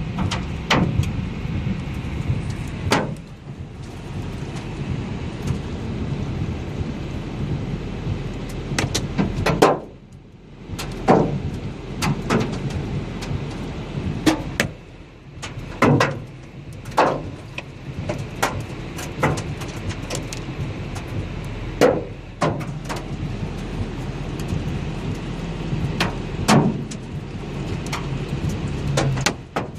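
Hailstorm: a steady rush of falling hail and rain, with irregular sharp knocks of hailstones striking hard surfaces, roughly one every second.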